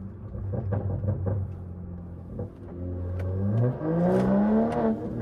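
Catless, straight-piped B58 turbo inline-six of a BMW 540i heard from inside the cabin: it burbles with scattered pops at a steady pace, then pulls with a rising pitch about three seconds in and eases off near the end.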